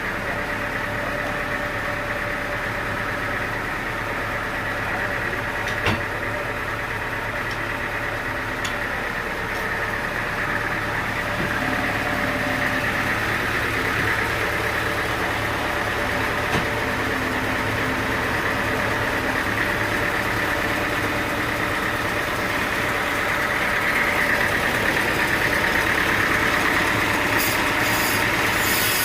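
Sawmill engine running steadily at idle, with two brief sharp knocks partway through.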